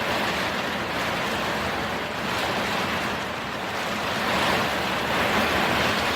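Heavy rainstorm on a camper, heard from inside: a steady, dense hiss of rain, with wind.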